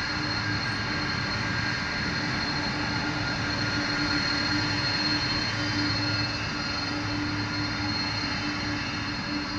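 The four turbofan engines of a Boeing 747 Dreamlifter cargo jet running with a steady roar and a thin high whine.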